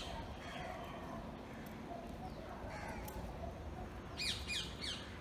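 Bird calls: a quick run of three or four short falling chirps about four seconds in, over steady outdoor background noise.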